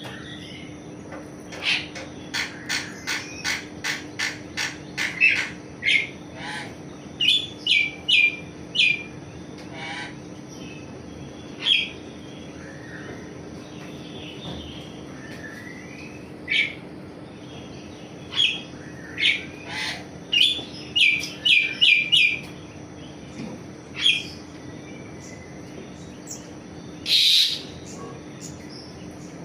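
Javan pied starling (jalak suren) calling: runs of short, sharp whistled notes, several a second, with pauses between runs. About 27 seconds in comes one louder harsh, noisy call. A steady faint hum sits underneath.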